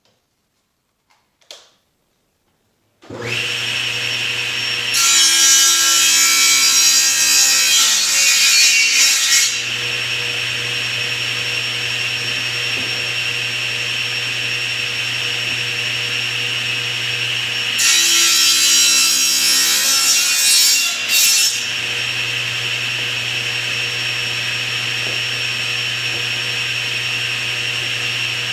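Table saw started about three seconds in and running steadily with a hum and whine, with a tenon jig pushing the workpiece through the blade twice, each cut a few seconds of louder, rougher sawing through wood.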